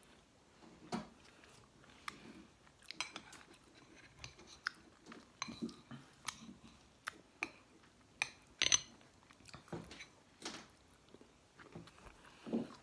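People eating ice cream with brownie chunks from spoons: close chewing and wet mouth sounds, with many short, light clicks scattered throughout.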